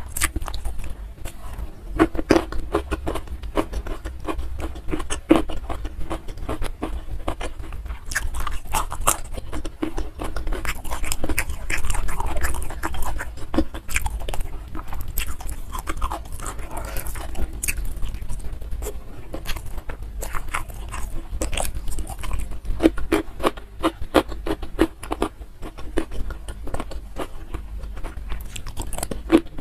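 Close-miked chewing and biting, with many short, irregular crunches and clicks, as raw vegetables dipped in sambal are eaten with rice by hand.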